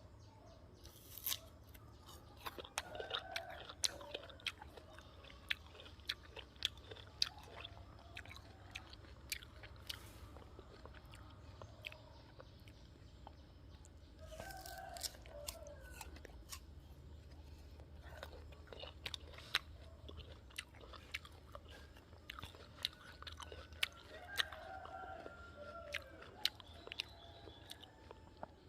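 Close-up crunching and chewing of raw guava: many sharp, crisp crunches as the fruit is bitten and chewed, busiest around three bites spread through the stretch.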